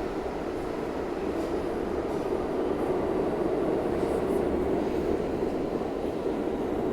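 R160B Alstom subway car in motion, heard from inside the car: a steady rumble of wheels on rail and running noise, with no clear breaks or changes.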